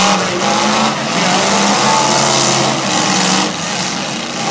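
Engines of several full-size demolition derby cars revving hard, their pitch rising and falling, over a loud noisy rush.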